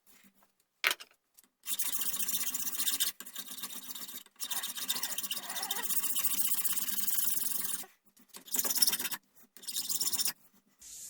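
Hand scraping and rubbing strokes on the gunstock at the buttplate, as in filing or sanding: one long stretch of steady rasping with brief breaks, then two short bursts near the end.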